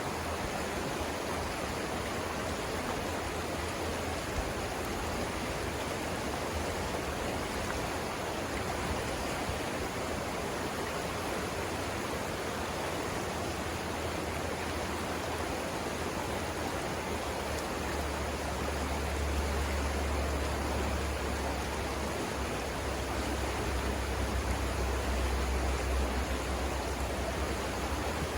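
River water rushing over rapids in a steady, even wash, with a low rumble that grows louder about two-thirds of the way through.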